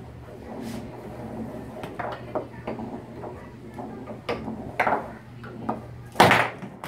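Foosball play on a Tornado T-3000 table: the ball being struck by the figures on the rods, giving scattered sharp knocks and clacks, with a louder knock a little before the end.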